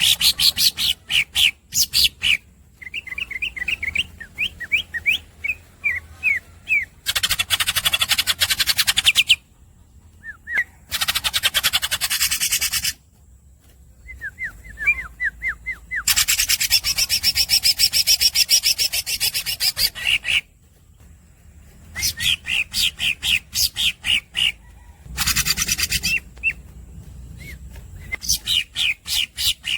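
Green leafbird (cucak ijo) singing: runs of quick, repeated squeaky chirps alternating with long, dense rolling trills. The trills last one to four seconds, with short pauses between phrases.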